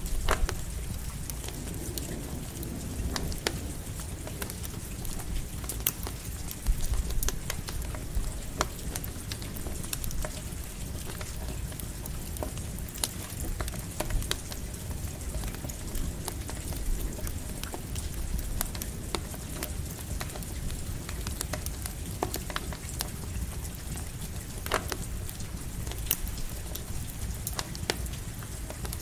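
Campfire crackling with irregular sharp pops, over the steady hiss and patter of light rain and a low, even rumble.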